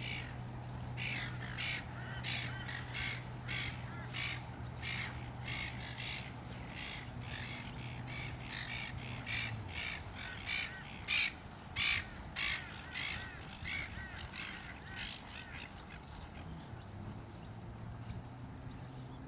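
A bird giving a long series of harsh, caw-like calls, about two a second, loudest around the middle and fading out near the end. A steady low hum runs underneath, stops about halfway and comes back near the end.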